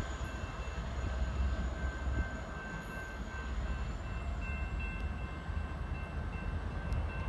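MBTA commuter rail train, an F40PH-2C diesel locomotive pushing a set of coaches, pulling out of the station: a steady low rumble from the locomotive and rolling cars, with faint steady high tones above it.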